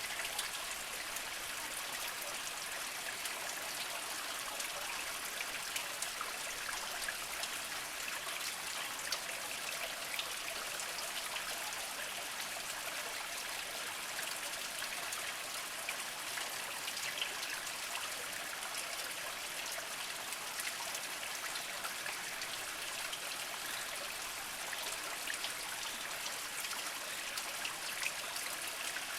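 Small mountain spring trickling over mossy rocks: a steady babble of running water with many fine drips and splashes.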